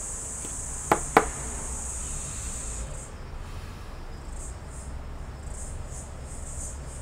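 High-pitched insect buzzing, steady at first, then breaking into pulsing chirps about three seconds in. Two sharp clicks sound close together about a second in.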